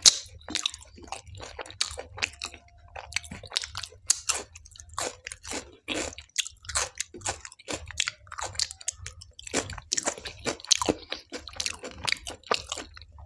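A person chewing a mouthful of soybean dal makhni eaten by hand, with many short wet smacking and crunching clicks, up close.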